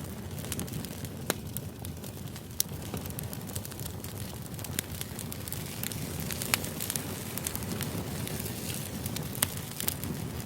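Background white-noise track: a steady low rumble with irregular sharp crackles and pops scattered through it, a few a second.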